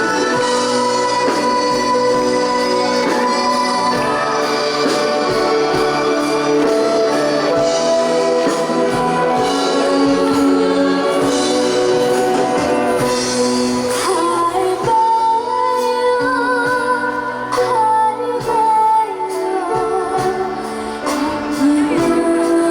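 Trot song played over a backing track, its instrumental introduction giving way to a girl's singing voice partway through.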